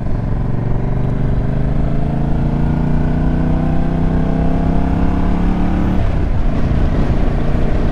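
Motorcycle engine pulling under acceleration, its note rising steadily for about six seconds before it drops away.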